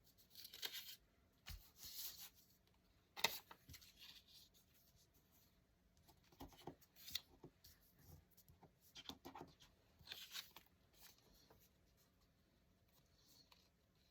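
Paper being handled in a small room: several short, faint rustles and scrapes, with one sharp tap about three seconds in.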